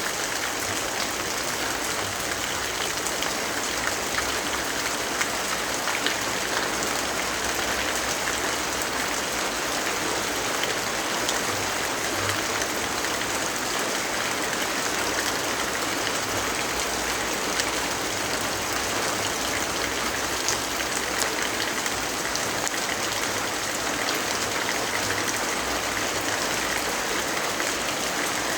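Steady rainfall as an even hiss, with scattered small sharp ticks of drops through it.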